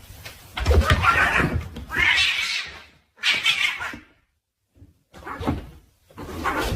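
A cat's calls in about four short bursts, each under a second, with a moment of dead silence just past the middle.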